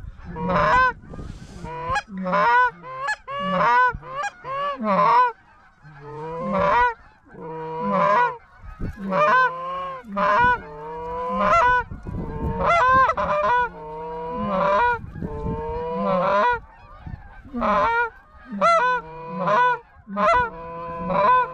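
Geese honking over and over, each honk a low note breaking sharply into a higher one, coming about one or two a second with only a short lull partway through.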